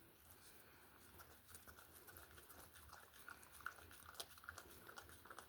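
Dog licking and eating whipped cream from a pup cup: faint, rapid little wet clicks and smacks.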